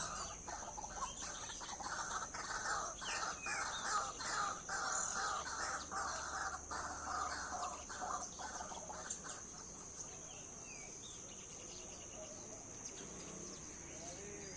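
Birds chattering with quick, repeated calls that die down after about nine seconds, over a steady high-pitched insect drone.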